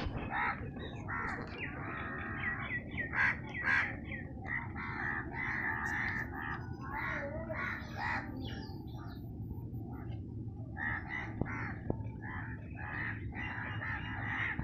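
Crows cawing over and over in quick, overlapping calls, with a short lull just after the middle. A steady low hum runs underneath.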